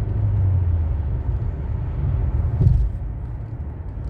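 Low, steady road and engine rumble inside the cabin of a 2015 Buick Encore being driven while its four-cylinder engine misfires and the car bucks. A brief bump comes about two and a half seconds in.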